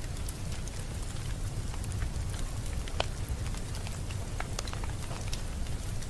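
Fire in a fireplace crackling, with scattered sharp pops over a low steady rumble; one louder pop about three seconds in.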